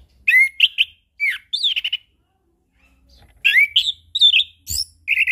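Chestnut-capped thrush (anis kembang) singing: two loud phrases of rapid, varied whistled notes with sweeping glides and short rattling trills, a pause of over a second between them. A sharp knock sounds during the second phrase.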